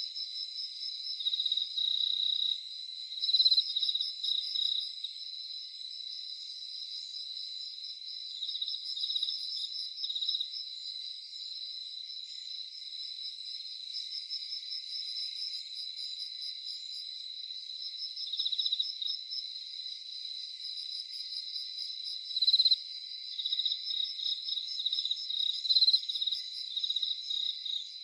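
Several crickets chirping together in a dense night chorus: steady, rapidly pulsed high trills overlapping at two pitches, with a few louder chirps standing out now and then.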